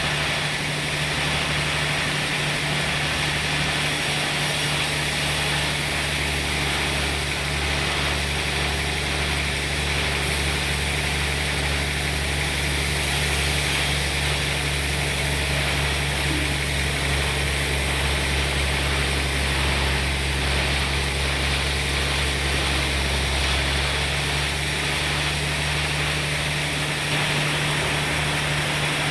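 Sawmill machinery running steadily: a constant low engine hum under an even high hiss, with no breaks.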